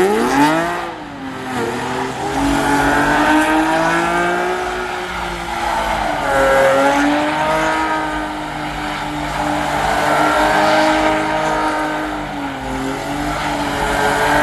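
Car engine revved up and held at high revs, its pitch climbing at the start and then wavering and dipping a few times, with tyre squeal under it, as in a burnout or drift.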